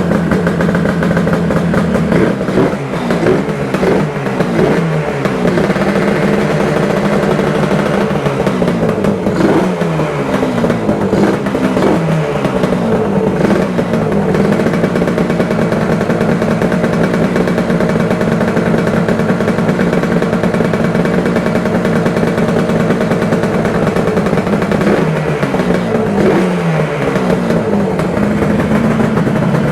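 Freshly rebuilt Yamaha RD400 Daytona two-stroke twin engine running, its revs blipped up and down several times a few seconds in, again around ten seconds in, and near the end, settling back to a steady run between.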